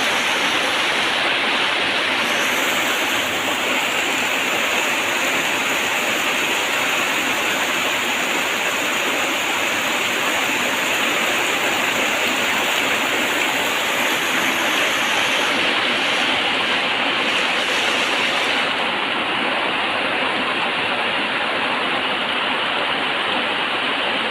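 Steady heavy rain falling, a constant even hiss with no thunder.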